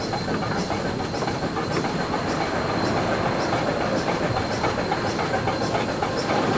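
Achensee Railway steam train running downhill, with a steady rumble and a constant rattle of small clicks from the wheels and cars on the track.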